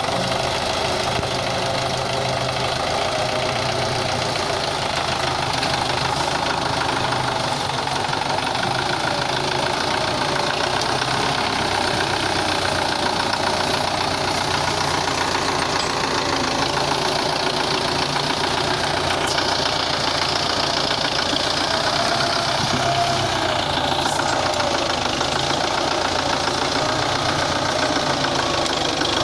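Diesel engine of a Russian-made 510 tractor running steadily at an even speed.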